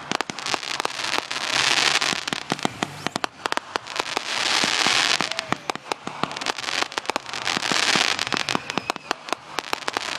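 Fireworks going off: a dense run of rapid crackling pops, with a rushing hiss that swells three times.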